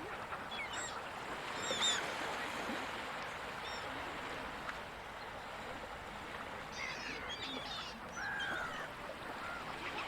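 Gulls calling over the steady wash of ocean surf: a few squawks in the first two seconds, the loudest about two seconds in, then a cluster of calls past the middle and a drawn-out curved call shortly after.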